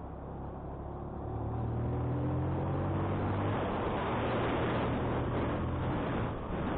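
Motorcycle engine pulling uphill and accelerating, its pitch rising, under a steady rush of wind noise on the microphone that grows louder as speed builds. A brief dip in level comes near the end.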